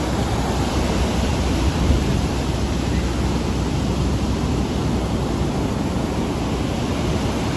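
Ocean surf washing up the beach, a steady rush, with wind rumbling on the microphone.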